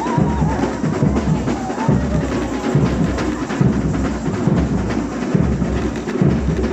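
A samba bateria playing: deep surdo bass drums beat a steady pulse under a dense band of lighter drums and percussion.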